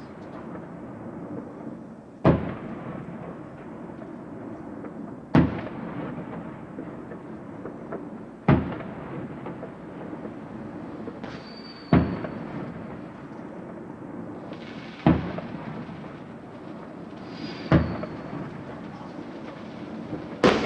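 Fireworks shells bursting overhead: six loud bangs about three seconds apart, each followed by a rolling echo, over a continuous rumble of more distant fireworks. A short high whistle is heard twice.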